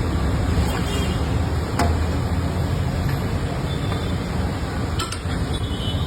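Street traffic noise with a steady low rumble of vehicle engines, and two sharp clicks about two and five seconds in.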